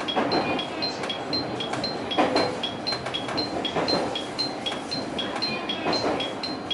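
Cab ride noise of a JR Kyushu 817 series electric train running along, with the wheels thumping over rail joints and the points every second or two as it takes the passing loop. A steady high electronic beeping in two alternating pitches, about four beeps a second, runs over it.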